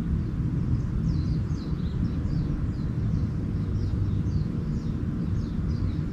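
Small songbirds chirping in a quick series of short, high, falling notes, a few a second, over a steady low rumble.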